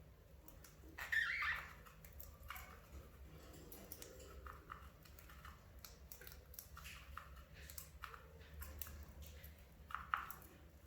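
Budgerigars giving a few faint, short chirps, the loudest about a second in and another near the end, among scattered light clicks and scratches.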